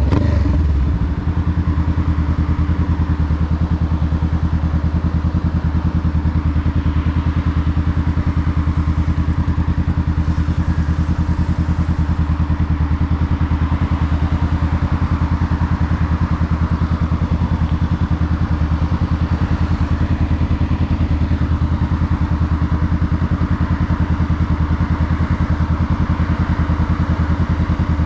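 Honda Rebel 500's 471 cc parallel-twin engine running at a steady speed under way, the engine note holding an almost constant pitch.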